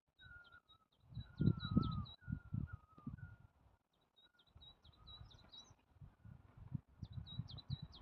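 Forest birds calling: quick high chirps and a repeated lower whistled phrase that slides down. Irregular low rumbling bursts run underneath and are louder than the birds.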